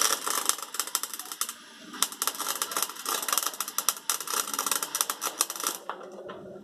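Wire-feed (MIG-type) welder arc crackling as a bead is laid, a fast irregular crackle of sharp clicks with a brief break about a second and a half in, stopping a little before the end.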